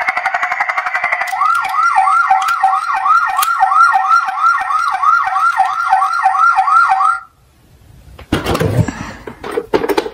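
Toy emergency vehicle's electronic siren: a buzzy steady tone for about the first second, then a fast rising-and-falling yelp at about three cycles a second that cuts off suddenly around seven seconds in. After a short lull, a clatter of knocks near the end.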